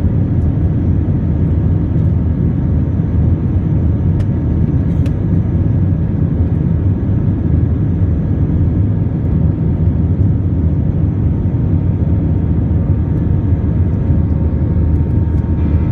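Jet airliner cabin noise during the climb after take-off: a steady low rumble of the engines and rushing air, with faint steady whine tones over it.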